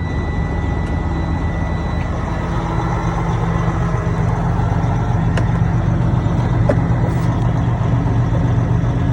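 Freightliner Columbia semi truck's diesel engine running steadily, heard from inside the cab, with a couple of faint clicks.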